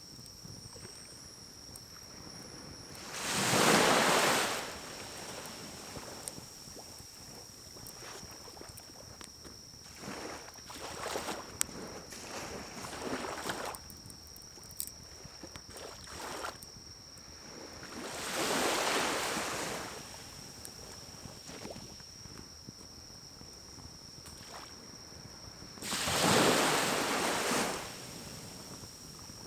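Blow pipe (pocket bellows) blowing into a pine-cone fire in a small wood-burning stove: three long puffs of rushing air, about a second and a half each, near the start, in the middle and near the end. Between the puffs the burning pine cones crackle and pop.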